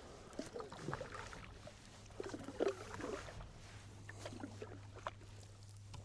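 Canoe paddle dipping and pulling through lake water in a few strokes, with small splashes and drips.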